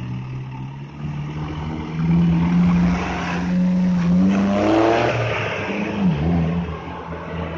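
Truck engine running under load, getting louder about two seconds in, revving up with a rising pitch around the middle, then dipping and picking up again briefly near the end.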